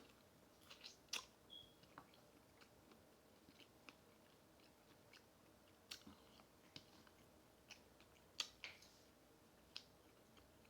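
Close-miked chewing of crispy fried food: scattered, irregular crunches and mouth clicks. Sharper crunches come about a second in and again about eight and a half seconds in.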